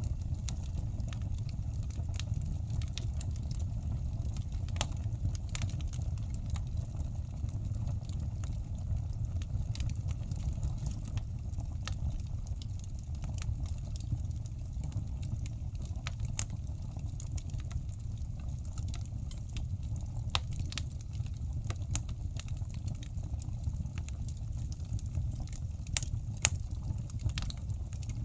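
Wood fire burning in a fireplace: scattered sharp crackles and pops over a steady low rush.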